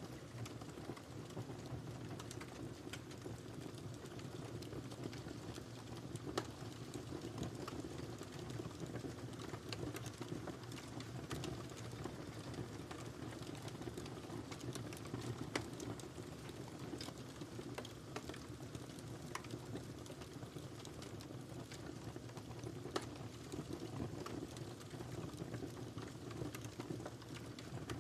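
Wood fire burning in a fireplace: a steady low rumble of the flames with irregular crackles and pops, a few sharper snaps among them.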